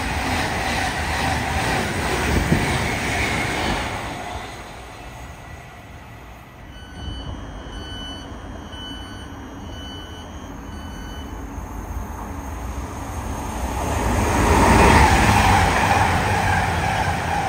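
A train running through the station, its rumble fading away over the first few seconds. Then five short electronic beeps, about one a second, over quiet background noise, and another rush of passing train or traffic noise building near the end.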